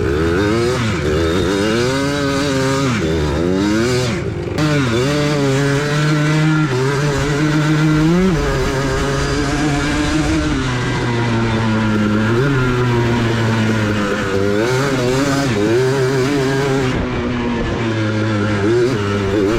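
Single-cylinder off-road engine revving up and falling back again and again as the machine is ridden hard in circles, doing donuts.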